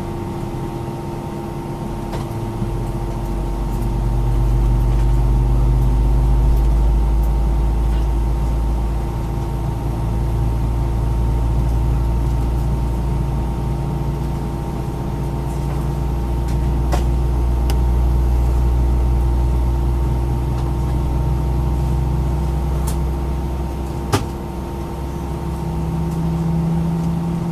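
Airliner cabin noise inside an Airbus A319-132 on the ground. A steady hum and whine sit over a low rumble that swells a few seconds in, then rises and falls slowly. There is a single sharp click near the end.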